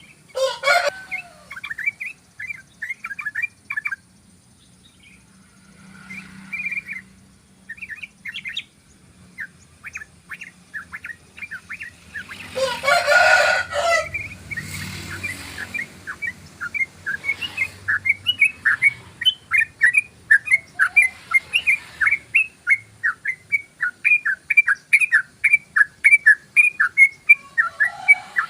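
Sooty-headed bulbul giving its long 'ropel' call: runs of short, quick chirps that settle into a fast, steady series of about three notes a second over the last ten seconds. A louder, harsh burst comes about halfway through.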